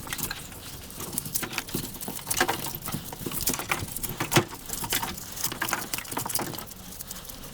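Broom sweeping a floor: irregular short scratchy strokes, several a second, with one louder knock a little past halfway.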